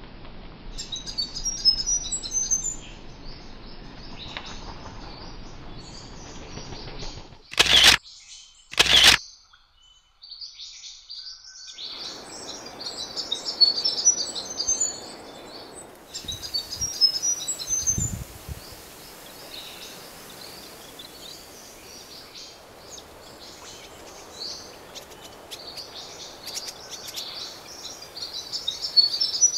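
Small songbirds chirping and twittering in quick, high-pitched calls over a low steady outdoor background. Two loud knocks come about eight and nine seconds in, followed by a brief hush before the chirping resumes.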